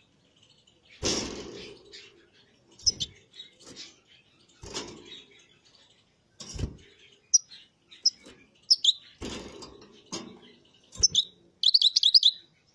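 Small cage finches chirping with short, high calls, ending in a quick loud run of chirps. Several dull knocks or rustles sound between the calls.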